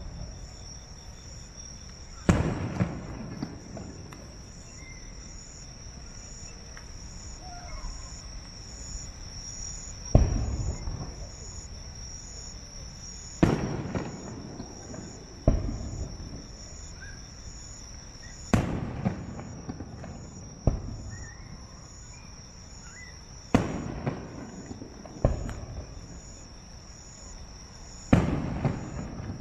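Aerial firework shells bursting, about a dozen sharp booms at uneven intervals, each followed by a rolling echo. Behind them insects keep up a steady, high-pitched pulsing trill.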